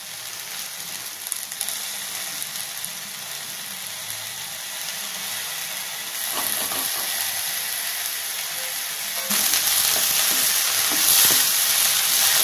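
Chopped okra sizzling in hot oil in a nonstick pan while being stirred. The frying is at the stage of cooking it to about 80% done. The sizzle steps up louder twice, about six and about nine seconds in.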